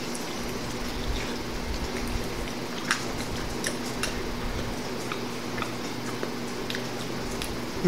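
Two people eating glazed chicken wings: small scattered wet clicks and smacks of chewing and of sticky fingers pulling meat off the bones, over a steady low hum.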